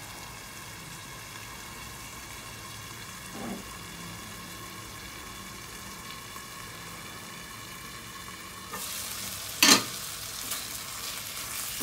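Pork belly and roasted chili paste stir-frying in a pan with a steady sizzle that turns louder and fuller about nine seconds in. A sharp clack of the stirring utensil against the pan follows straight after, the loudest sound, then a few lighter clicks.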